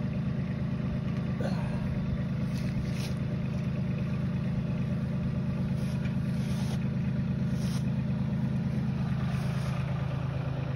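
An engine idling steadily and evenly, with a few faint metallic clicks.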